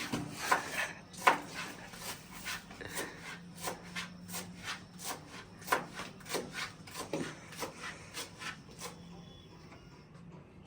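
Kitchen knife cutting vegetables on a cutting board: a run of irregular short strokes, roughly two a second, that die away near the end.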